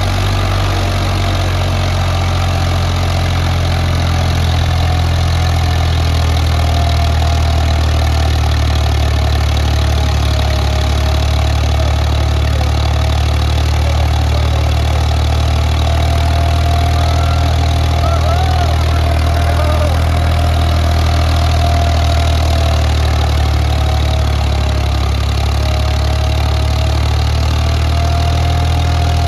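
Ford 3610 tractor's three-cylinder diesel engine running steadily, its low, even note holding without change.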